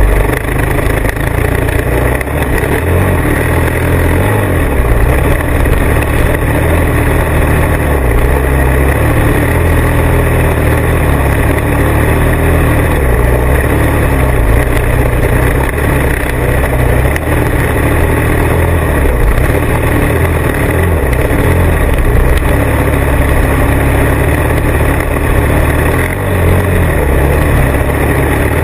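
Motorcycle engine running steadily while riding, loud and constant with small rises and falls in level.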